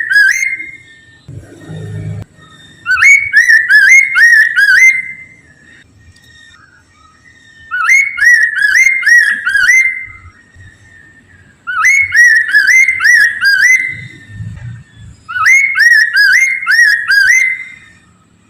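A Chinese hwamei singing loud whistled phrases. Each phrase is a run of quick, repeated rising-and-falling notes lasting about two seconds, and five phrases come a few seconds apart. Two soft low thuds fall between phrases.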